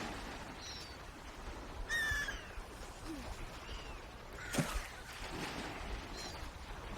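Swans calling: a handful of short, separate calls over a steady outdoor hiss, the clearest about two seconds in and another near the middle.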